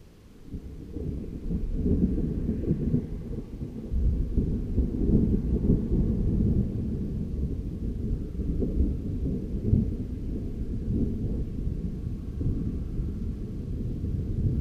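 Long rolling thunder: a deep rumble that builds over the first couple of seconds and rolls on unevenly, with swells about four and ten seconds in.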